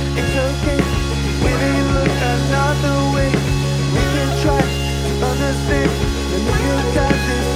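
Rock band playing live: electric guitars over a sustained bass line and steady drum hits.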